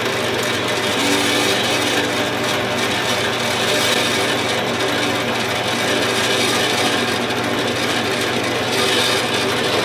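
Jet horizontal bandsaw running, its blade cutting through 1¼-inch square tubing: a steady hiss of the cut over a constant motor hum.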